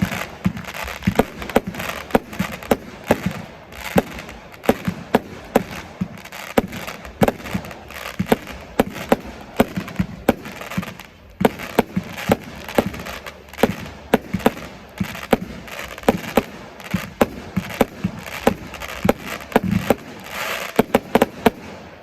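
Fireworks display: a rapid, dense string of bangs, a few per second, over continuous crackle and hiss.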